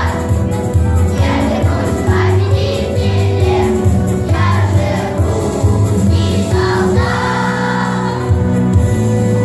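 A children's choir singing a song together with instrumental accompaniment.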